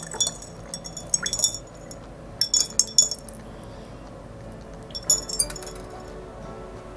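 Stones and glass marbles being dropped into glass jars, clinking against the glass in about four short clusters of ringing clicks.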